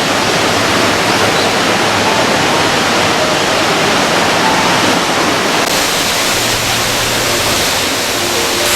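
A waterfall's water pouring down in a steady, loud rush.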